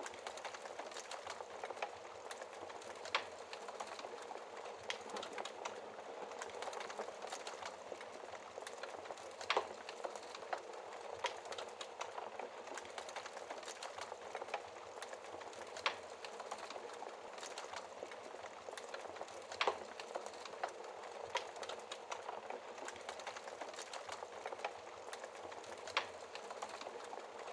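Wood fire burning in a fireplace: a steady soft hiss of flames with constant small crackles and an occasional louder pop every few seconds.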